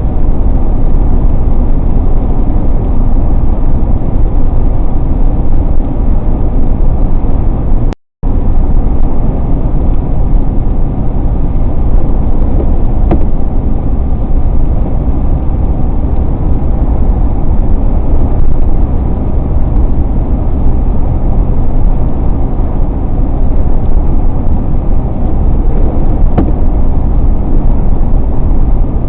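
Steady, loud, low rumble of road and engine noise from a car driving on the highway. The sound cuts out completely for a moment about a third of the way in.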